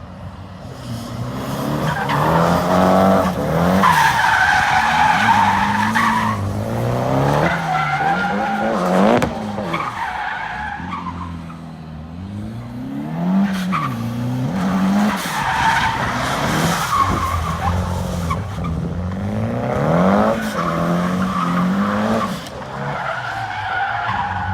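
A drift car's engine revving up and down repeatedly while its tyres squeal and skid through a slide. The squeal is loudest about four to six seconds in.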